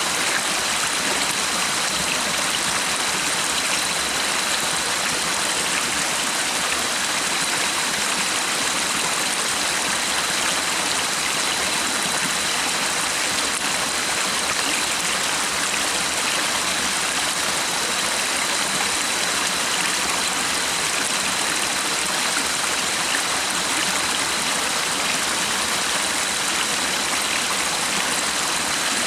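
Stream water flowing steadily, with a faint, steady high-pitched tone behind it.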